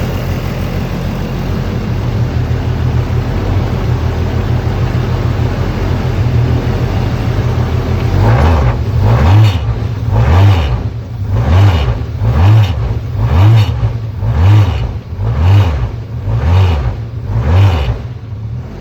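Formula Renault 2.0 race car's 2-litre four-cylinder engine, freshly started, idling steadily, then blipped about once a second: nine quick revs that rise and fall before it settles back near the end. It runs strong and clean.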